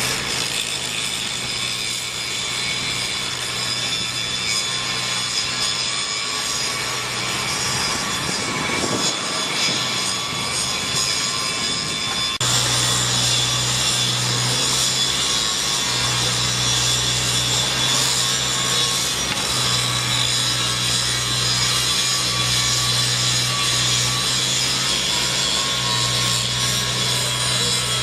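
Construction machinery running steadily, a continuous grinding, saw-like noise with a low hum, changing abruptly about halfway through.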